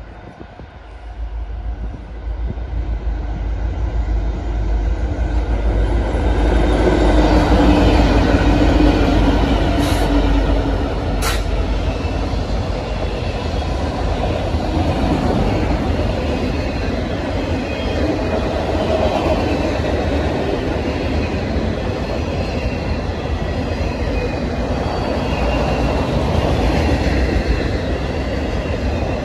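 Freight train passing at close range. The diesel locomotives' running grows louder over the first several seconds and peaks as they go by. Then a long string of autorack cars follows with steady wheel-on-rail rumble, and two sharp clicks come about ten and eleven seconds in.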